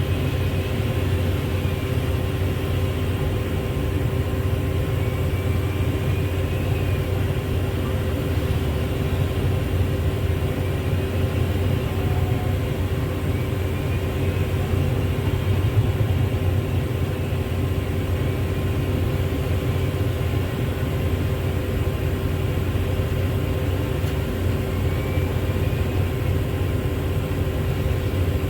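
Heavy diesel engine running steadily at an even pitch, with a constant low rumble and a steady hum over it.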